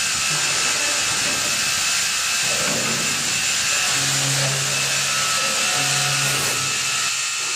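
Maggi GT800 CNC multi-spindle boring machine running: a loud, steady whirring hiss, with a low hum coming in twice, about four and six seconds in.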